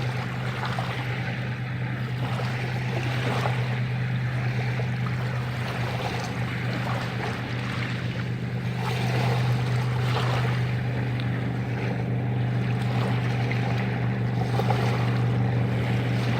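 Sea waves washing and splashing, swelling and fading every second or two, under a steady low engine hum.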